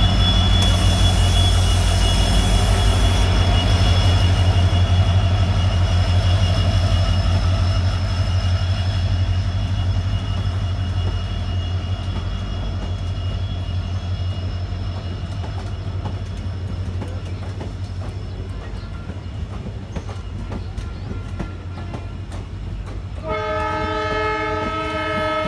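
WDP4D diesel locomotive running, its engine making a loud, low, rhythmic throb that slowly fades. Near the end its horn sounds once for about two seconds.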